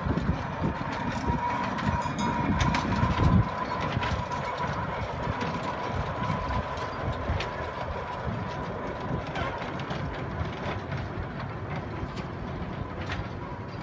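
A small tourist train rolling along its track: a steady low rumble with scattered clicks from the wheels and cars, and a thin steady whine running through it.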